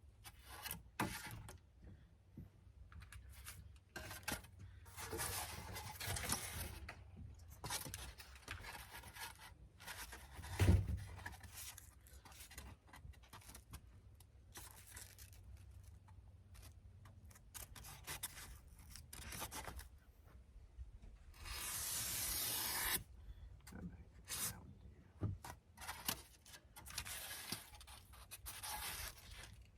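Irregular rubbing, scraping and tearing sounds of foam board insulation being handled and worked. There is a single knock about eleven seconds in and a longer scrape around twenty-two seconds.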